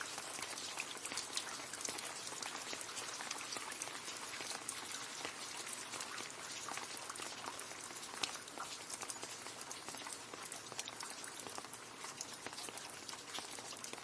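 Steady rain falling and splashing into a puddle, a dense patter of many small drop splashes.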